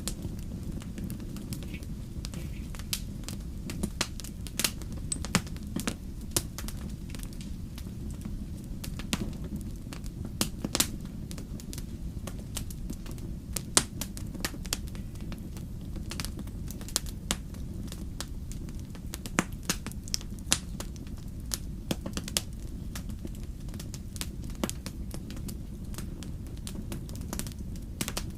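Wood fire burning in a fireplace: a steady low rumble of flames with irregular sharp pops and crackles of burning logs.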